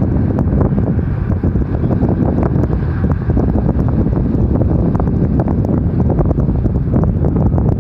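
Wind buffeting the microphone, with a steady low rumble and frequent crackles throughout.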